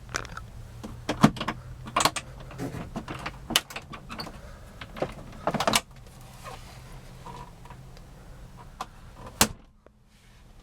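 A string of clicks and knocks from handling the car's interior fittings over a faint low hum, ending with one sharp knock like a car door shutting about nine seconds in, after which it goes nearly quiet.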